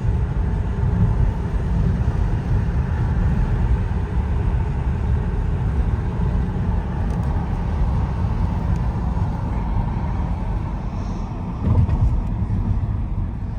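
A car driving along the road: a steady low rumble of tyres and engine, with a short thump near the end.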